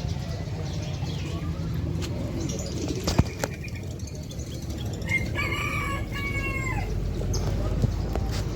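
A rooster crows once, about five seconds in: a pitched call in two parts that falls away at the end, heard over a steady background hubbub.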